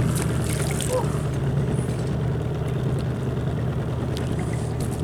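Outboard motor on a small boat running steadily at low revs, an even low hum.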